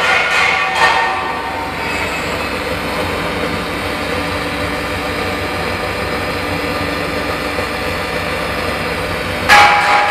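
An automatic circular-seam argon arc welding machine running with a steady mechanical hum, with a few knocks in the first second. Loud clattering starts near the end.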